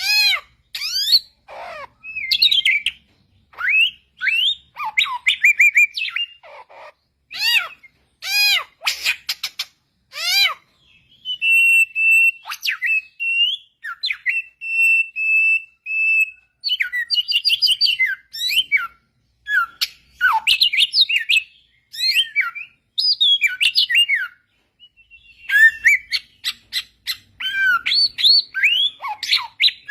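Samyong bird singing: a fast, varied string of clear whistled phrases built from sweeping up-and-down notes. Between about 11 and 16 seconds in, the song shifts to steadier held notes, and it pauses briefly near 25 seconds.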